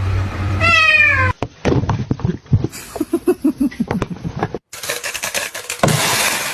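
A cat meowing: one call falling in pitch about half a second in, then a string of short, quick mews. Near the end the calls give way to a stretch of noise with no clear pitch.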